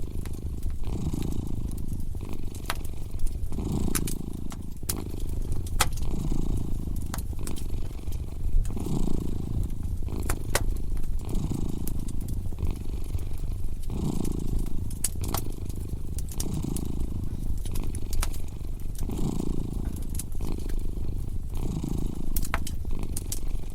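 A domestic cat purring close up, the low purr swelling and easing in an even rhythm with each breath, over a crackling wood fire whose sharp pops and snaps come at irregular moments, a few each second.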